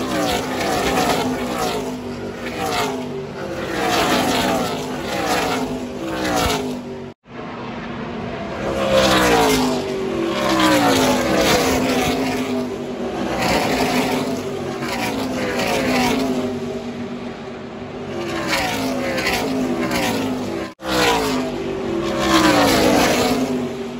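NASCAR race trucks' V8 engines passing at speed one after another, each engine note falling in pitch as it goes by. The sound cuts out sharply twice, about seven seconds in and near the end.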